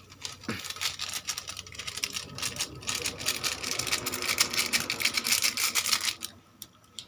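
Sliced bitter gourd sizzling and crackling in hot oil as it is stir-fried in a metal pan: a dense run of sharp pops and hiss that grows louder about three seconds in and stops abruptly near the end.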